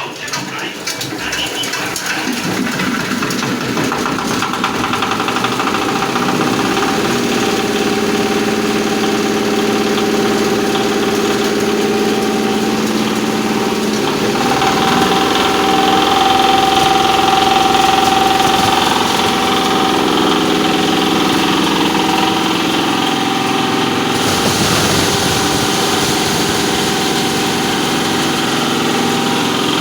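Posho mill (maize grinding mill) machinery starting up and building to speed over the first few seconds, then running with a steady hum.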